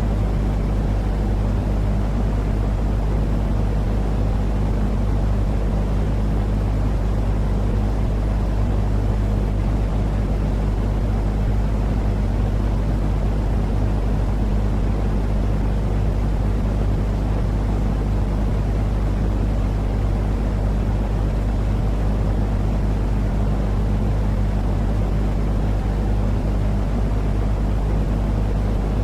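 Steady, unchanging low rumbling noise with a constant hum underneath, played as a continuous sleep-aid noise track for soothing a crying or colicky baby.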